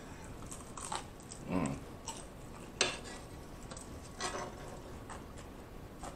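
Close-miked chewing of crispy fried chicken: a few scattered crunches and sharp clicks, with light taps as the piece is set down on the metal griddle tray.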